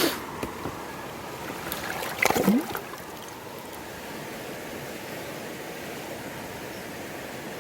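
River water rushing steadily, the river running high after heavy rain, with a cluster of sharp knocks about two seconds in.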